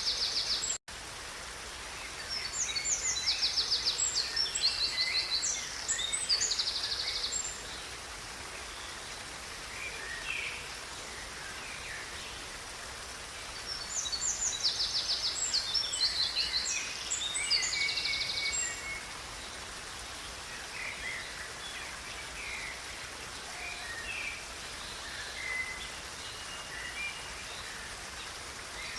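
Songbirds singing in two long outbursts of rapid trills and chirps about twelve seconds apart, with scattered single calls between, over the steady rush of a river. The sound cuts out for an instant just under a second in.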